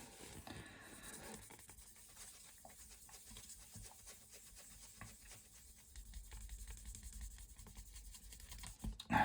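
Faint scratching of a fine-grit sanding pad rubbed in short strokes over a wooden pipe bowl, smoothing a glue-filled dent flush. It grows a little louder from about six seconds in.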